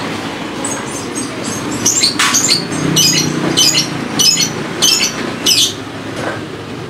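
A bird chirping in a quick series of short, high calls, about two a second, over a steady low rumble.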